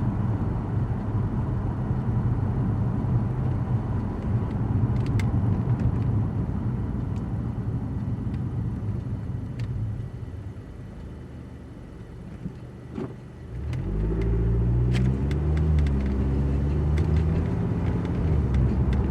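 Lexus car heard from inside the cabin while driving, with a steady low rumble of engine and road noise. It quietens as the car slows about ten seconds in. A few seconds later the engine pulls away again, its pitch rising and then holding.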